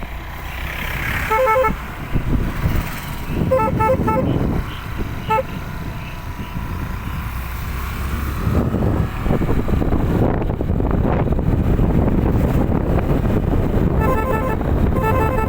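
Aftermarket bullhorn on a Suzuki Access scooter sounding in groups of short, quick beeps, with a rapid run of beeps near the end, over the rumble of wind and road noise while riding, which grows louder about halfway through.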